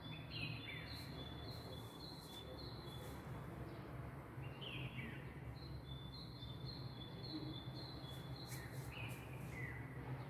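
Birds calling: a string of short high chirps about two a second, broken by a few lower notes that slide downward, over a faint steady low hum.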